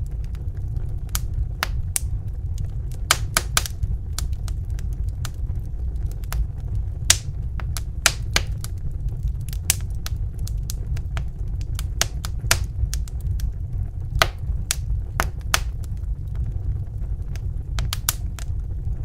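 Wood fire in a fireplace crackling: irregular sharp pops and snaps, one to three a second, over a steady low rumble of the burning fire.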